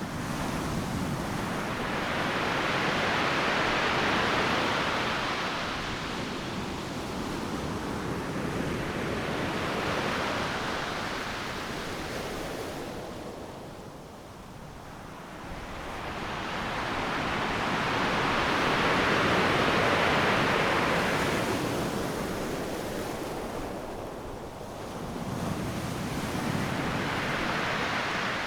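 Ocean surf breaking on a beach: about four waves, each a rushing swell of noise that builds and then fades, with a quieter lull about halfway through.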